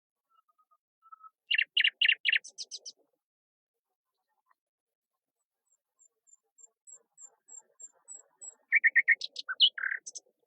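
Songbirds singing: two quick bursts of sharp chirping notes, with a faint, thin, very high series of evenly spaced notes between them.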